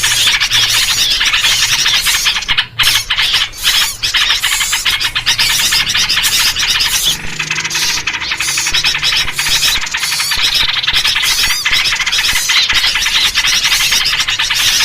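Dense, unbroken chorus of harsh, agitated bird chatter and squealing calls, a noisy-bird lure recording built around yellow-vented bulbul (trucuk) calls.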